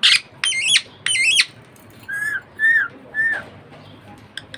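Budgerigar calling: a brief harsh squawk at the start, then two wavering, warbling chirps, then three shorter, slightly falling chirps about half a second apart.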